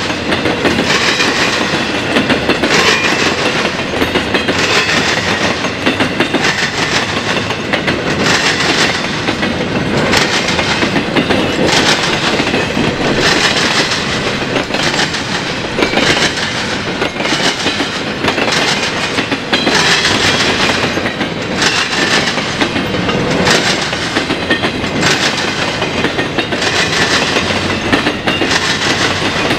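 Canadian National freight train's cars rolling past, their wheels banging over the railroad diamond in a regular, repeating clatter.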